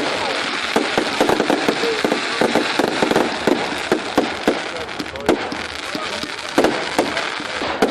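Fireworks display going off: a rapid string of sharp pops and crackles, several a second, over a steady rushing noise, with crowd voices faintly beneath.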